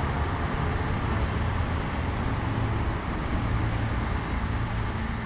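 Passenger train passing on the railway line: a steady rumble and rush of wheels on rails, with a low hum underneath.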